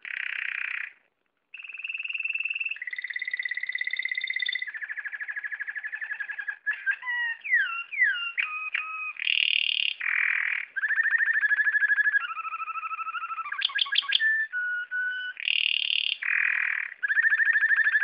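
Northern cardinal singing: a run of clear whistled phrases, some held on one pitch, some fast trills of rapidly repeated notes, and quick down-slurred notes, with a short pause about a second in.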